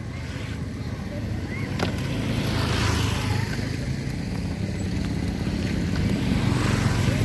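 A motor vehicle's engine running close by as a low rumble that grows louder over the stretch, with faint voices in the background.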